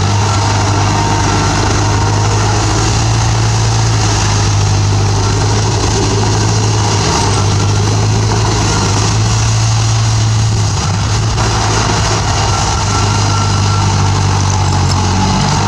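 Bulldozer's diesel engine running steadily at work, its low drone shifting briefly in pitch about seven and eleven seconds in.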